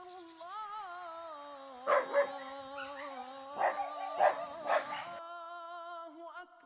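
A dog barking about five times in two clusters, over a call to prayer sung through a loudspeaker, a long wavering held note.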